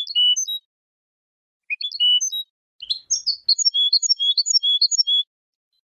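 European goldfinch (chardonneret) singing: two short twittering phrases, then from about three seconds in a longer run of quick repeated notes that stops a little after five seconds.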